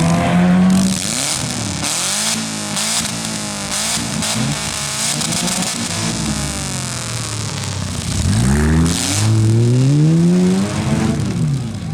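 Compact demolition-derby cars' engines revving up and down, their pitch rising and falling over a constant noisy background, with a strong climbing rev in the last few seconds.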